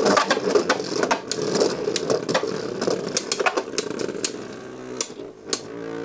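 Beyblade Burst spinning tops whirring and clattering against each other and the plastic stadium, with many quick sharp clicks over a steady whir.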